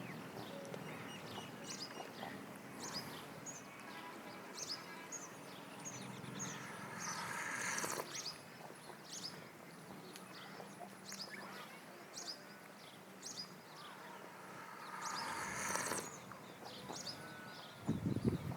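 Small birds chirping: many short, high chirps repeating over a steady outdoor background, with a low thump near the end.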